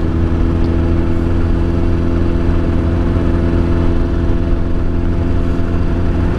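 Motorcycle engine running at a steady, unchanging speed, with a low road and wind rumble underneath.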